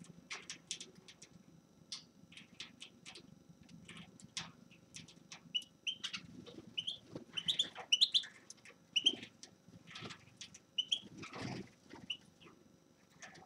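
Small finch calling: a string of short, scattered chirps and twittering notes, busiest in the middle, with a brief rustle about eleven seconds in.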